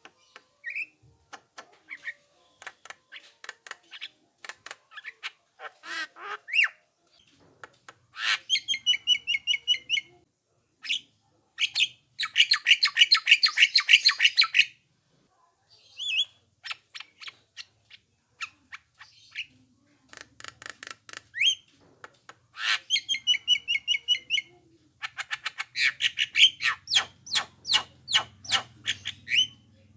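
Javan myna singing: a varied run of sharp clicks, short chirps and quick rising whistles, broken by several harsh, rapid rattling phrases of one to a few seconds each.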